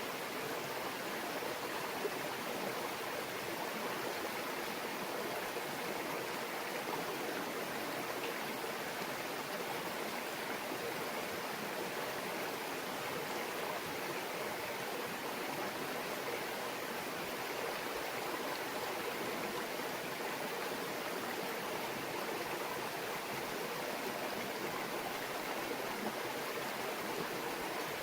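Shallow stream murmuring, a steady, unbroken flow of water.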